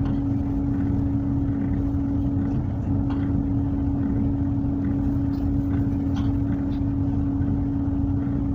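Tug boat's diesel engines running steadily, a low rumble with a constant hum over it.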